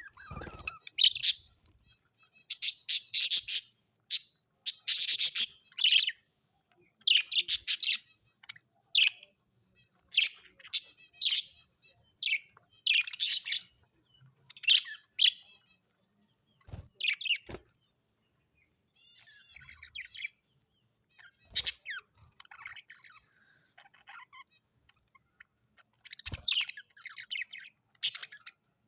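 Birds chirping in quick bursts of high calls with short gaps between, and a few sharp clicks in the second half.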